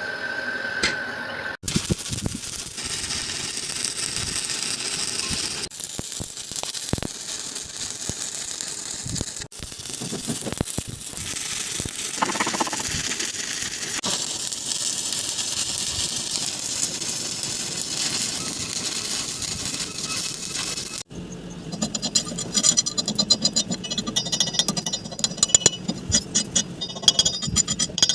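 Arc welding crackling steadily while excavator bucket teeth are built up with weld, heard in several cut-together stretches. Near the end it gives way to a rapid, irregular clicking rattle.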